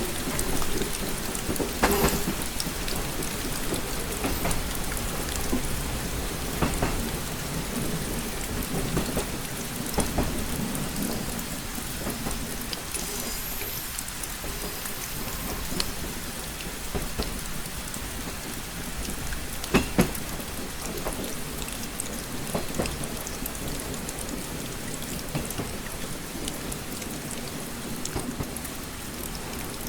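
Steady rain pattering on a train window, with scattered sharper drop strikes, the loudest about 2 s and 20 s in, over a continuous low rumble.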